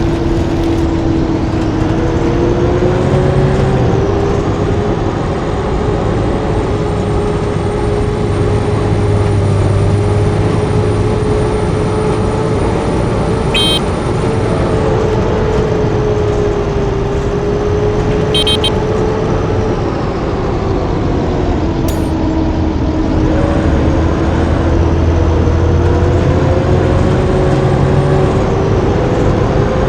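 Blue Bird bus engine running under way, with a steady whine that slowly rises in pitch, drops about two-thirds of the way through and climbs again. A few brief sharp clicks come in the middle.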